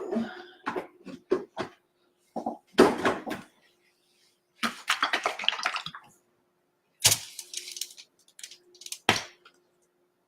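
Irregular knocks, taps and brief scraping of painting tools and supplies being handled on a work table, with a sharper knock about seven seconds in and another near nine seconds. A faint steady hum runs underneath.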